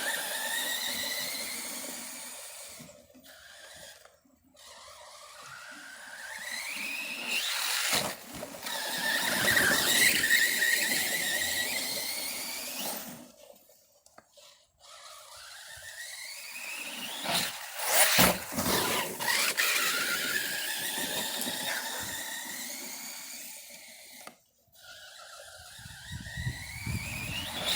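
Electric motor and drivetrain of a radio-controlled car whining up in pitch as it accelerates, about five runs one after another, with a few sharp knocks between them.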